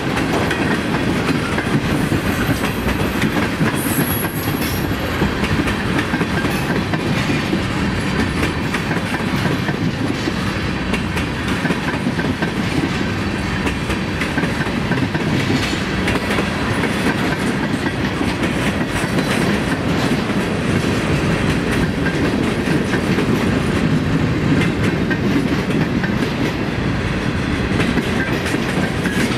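Freight train of tank cars and boxcars rolling past: a steady rumble of steel wheels on the rails with the clickety-clack of wheels crossing rail joints.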